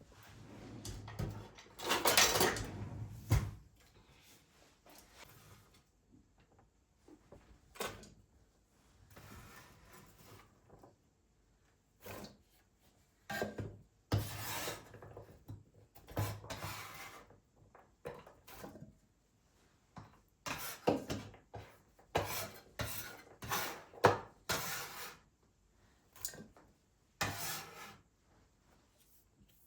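Irregular rubbing, scraping and light knocking of household objects being handled, in a string of short bursts with pauses between them.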